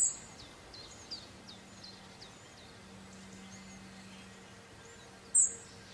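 Birds chirping: many short, quick high chirps, with two louder sharp high calls, one at the start and one about five and a half seconds in.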